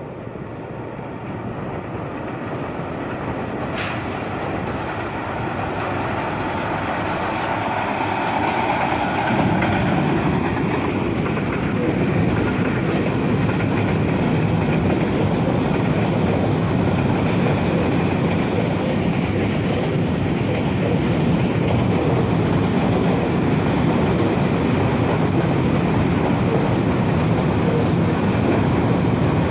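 GE diesel-electric locomotive hauling a long container freight train, growing louder as it approaches over the first ten seconds. The container wagons then roll past on the rails with a steady noise.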